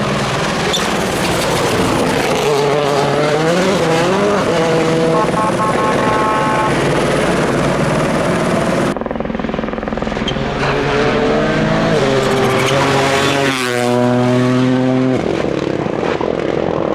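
Rally car engines passing at speed, the pitch climbing and dropping repeatedly through gear changes. About nine seconds in the sound changes abruptly to another car, whose engine climbs to a high, held note near the end before cutting off sharply.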